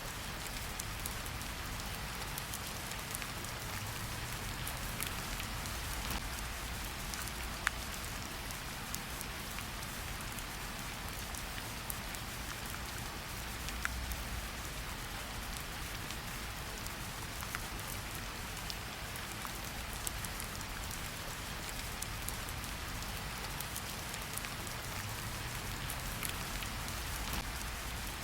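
Steady rain falling in a forest, an even hiss with scattered sharper drop ticks, a few louder single drops standing out now and then.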